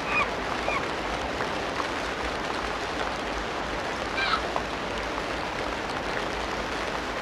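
Tropical rainforest ambience: a steady hiss over which short animal calls sound twice near the start and again in a brief cluster about four seconds in.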